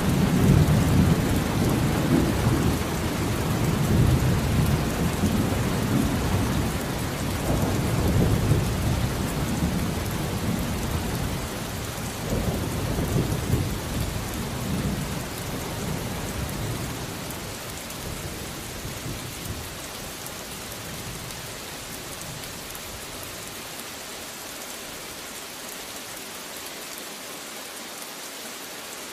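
Steady rain with a long rolling thunder rumble that swells several times and fades out over the first half or so, leaving only the even hiss of rain.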